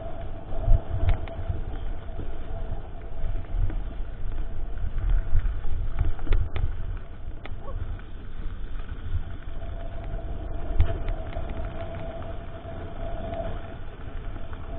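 Mountain bike ride heard through a mounted GoPro: a low rumble of wind and tyres on the trail, with scattered sharp knocks and clicks as the bike goes over bumps. A steady hum comes in near the start and again for a few seconds in the second half.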